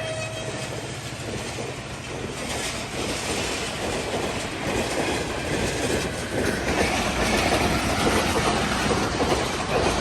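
Passenger express train passing at speed, its coach wheels rumbling and clattering over the rail joints, with the tail of the horn dying away at the start. The rumble grows louder and harsher, with a grinding hiss from the wheels, from about two-thirds of the way in.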